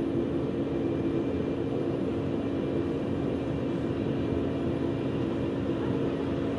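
Steady drone of jet airliner noise, even and unchanging, with a few constant hum tones in it.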